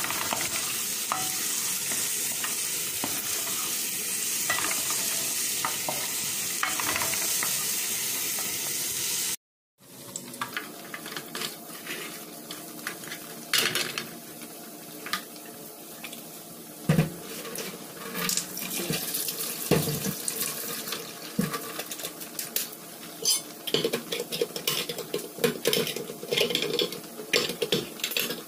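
Chopped onion, carrot and scallion sizzling in oil in a pot while a spoon stirs and scrapes against it. The sizzle is steady and loud at first. After a short break about nine seconds in, it is quieter, with scattered clicks and scrapes of the spoon on the pot.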